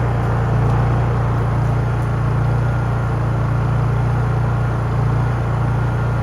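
Honda EU3000is inverter generator's single-cylinder engine running steadily with an even hum, warming up after a cold start.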